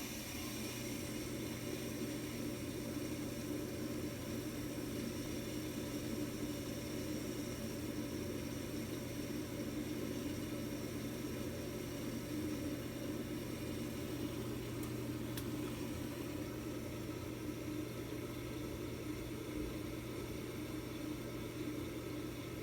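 Carrier gas furnace running with a steady droning hum made of several held tones, the weird noise it has been making.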